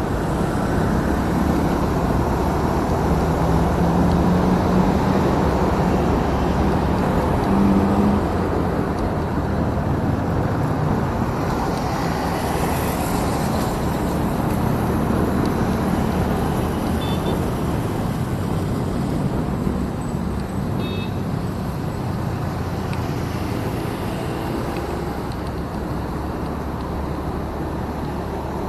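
Motorcycle riding in road traffic: the engine runs steadily under a continuous rush of wind and road noise, with a clearer engine tone in the first eight seconds or so.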